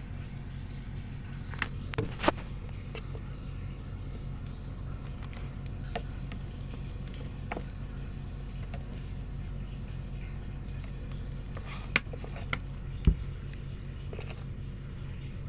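Steady low machinery hum, with a few sharp clicks and taps about two seconds in and again near the end.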